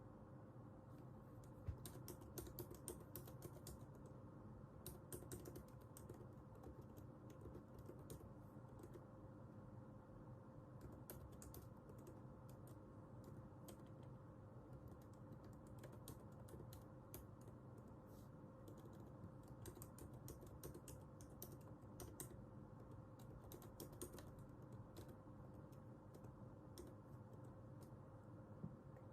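Computer keyboard typing, faint, in irregular runs of keystrokes broken by short pauses, over a steady low hum.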